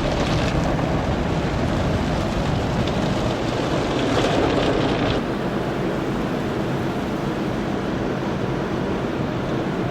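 Car wash water spraying against a car, a steady hiss that drops a little about five seconds in.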